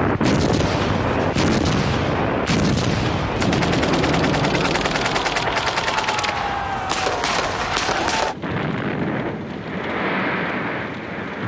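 Battle sound: rapid machine-gun fire and gunshots, with a falling whistle near the end of the firing. The firing cuts off suddenly about eight seconds in, leaving a noisy rumble.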